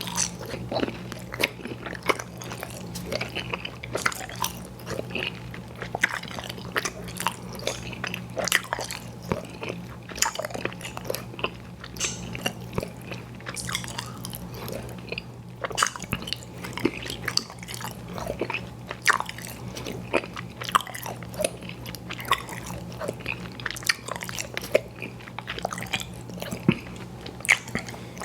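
Close-miked chewing of chewy fruit candies (Airhead Bites and Tootsie Fruit Chews): wet smacking and sticky clicking, several times a second and uneven, over a low steady hum.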